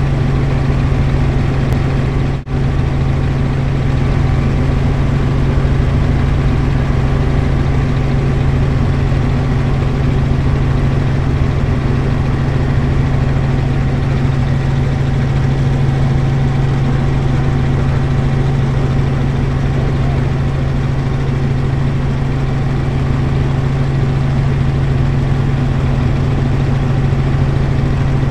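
Helicopter in flight: a loud, steady drone of rotor and engine with a constant low hum. There is a brief dropout about two and a half seconds in.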